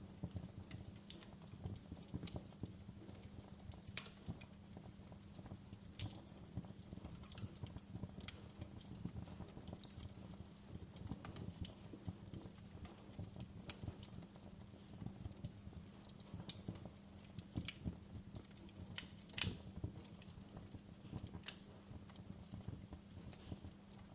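Wood fire crackling in a fireplace: irregular small pops and snaps, with one louder pop about three-quarters of the way through, over a steady low hum.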